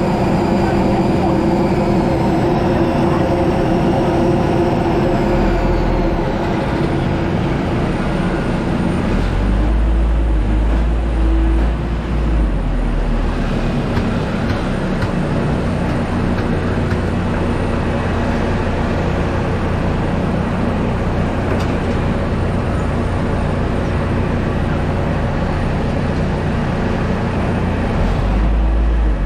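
Steady engine and machinery noise on an airport apron while an Airbus A320 is unloaded. A high whine glides down in pitch in the first few seconds, and a deep rumble swells up about a third of the way in and again near the end.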